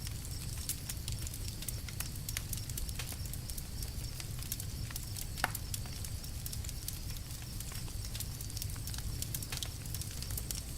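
Campfire crackling, with many small sharp pops and one louder pop about halfway, over a steady low rumble.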